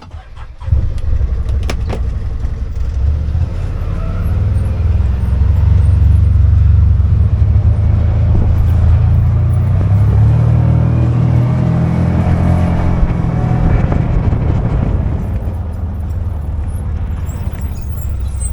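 A motor vehicle being driven: a steady low engine and road rumble that starts about a second in, grows louder after a few seconds and eases off near the end.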